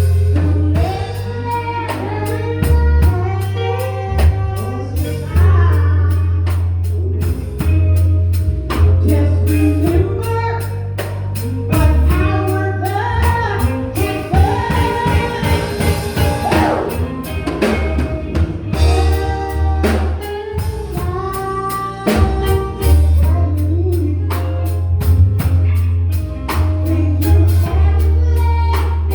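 Gospel band performing: singing over drum kit, guitar and keyboard.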